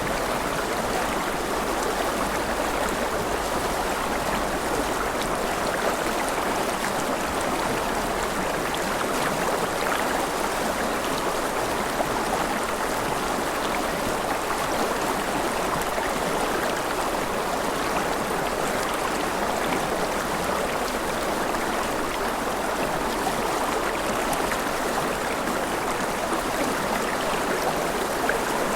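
Mountain river flowing over rapids: a steady, even rush of water.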